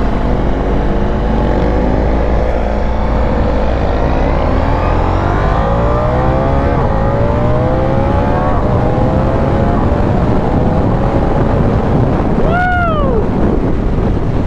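Ducati Diavel V4's 1158 cc V4 engine accelerating through the gears, its pitch climbing and dropping back at each quick-shifter upshift, over heavy wind rush. Near the end, a brief rev rises and falls.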